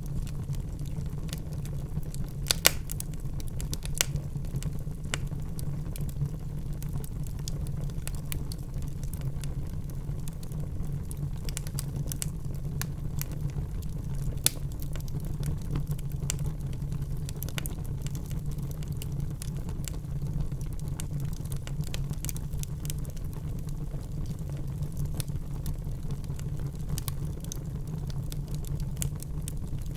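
Wood fire crackling in a fireplace: irregular sharp pops and snaps, the loudest a few seconds in, over a steady low rumble.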